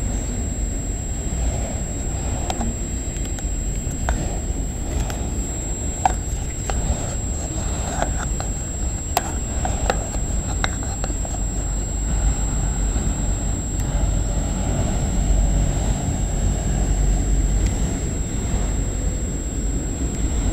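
Freight train rolling past: a steady low rumble of wheels on rail, with scattered clicks and brief squeals from the cars between about four and eleven seconds in.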